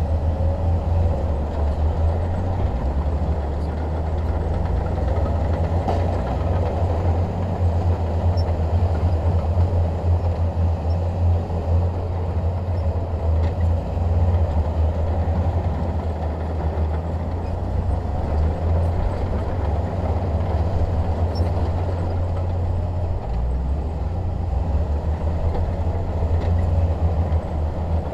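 Bulldozer's diesel engine running with a steady low rumble.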